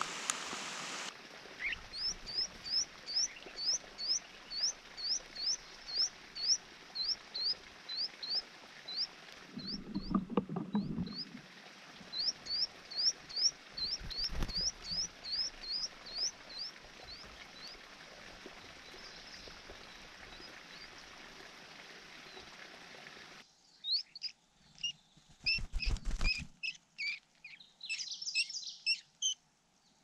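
Finchbill nestlings and parent at the nest: a long run of short high chirps, about two a second. After a cut, a quicker burst of begging chirps and twittering comes near the end. Rain patters for about the first second, and there are a couple of low thumps.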